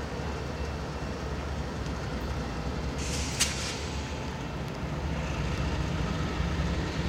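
Diesel freight locomotives running with a steady low rumble, with a short sharp hiss of air about three seconds in.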